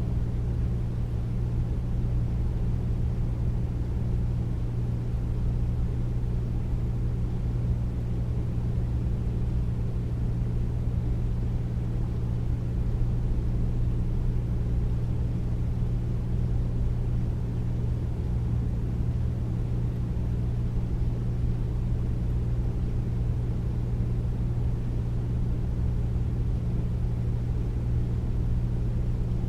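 Air conditioner running at a steady level: a deep, even hum with a low rush of air and no changes.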